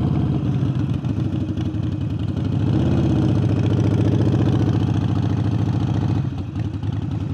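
Harley-Davidson Forty-Eight's air-cooled V-twin, fitted with a new aftermarket air intake, running with its uneven pulsing beat. The revs rise a little about three seconds in and ease back about six seconds in.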